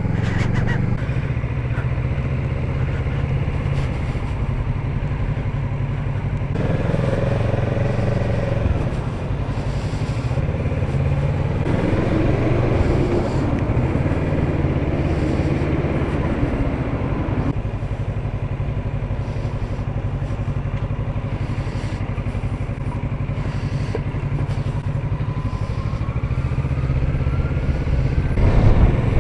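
Motorcycle engine running under way, its note shifting a few times as it rides along, with a tone rising near the end.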